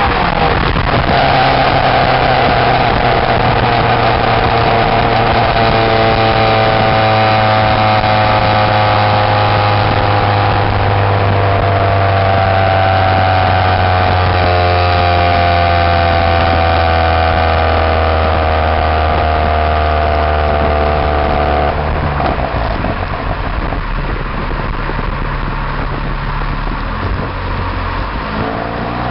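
Straight exhaust of a 2002 Pontiac Grand Am's Ecotec four-cylinder, with no catalytic converter or resonator, heard close to the tailpipe while driving. A steady drone whose pitch sinks slowly as the car slows, drops to a lower, quieter note about three-quarters of the way through, and starts rising again at the very end.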